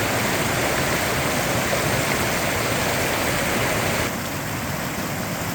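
Small mountain brook rushing steadily as it cascades down into plunge pools, slightly quieter about four seconds in.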